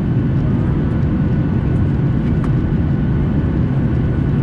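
Steady, loud rumble of engine and airflow noise heard inside the cabin of a Boeing 737 airliner in flight, with faint steady tones above the rumble.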